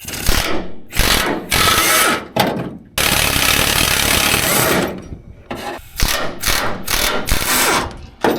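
A handheld power tool run in repeated bursts, most of them short, one held for about two seconds.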